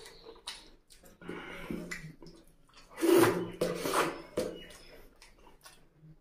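Close-miked wet chewing and lip-smacking of a handful of rice and oily mutton curry, with squelching of the sticky food; the loudest smacks come in a cluster about halfway through.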